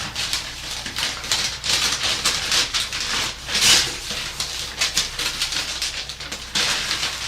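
Packaging crinkling and rustling in irregular bursts as it is rummaged through and opened, the loudest rustle a little past halfway.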